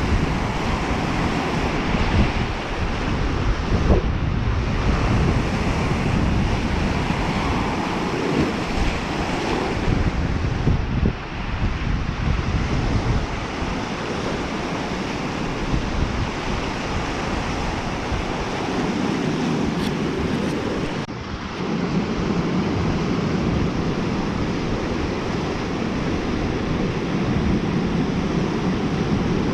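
Lake Superior waves washing onto the shore in a continuous rush, with wind buffeting the microphone.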